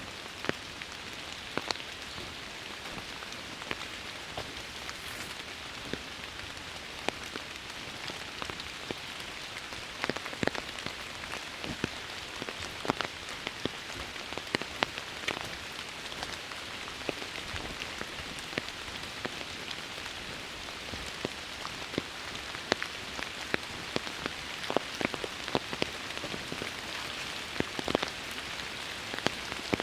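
Steady rain falling in woodland, a continuous hiss with many separate heavier drops landing close by, the nearby drops coming more often in the second half.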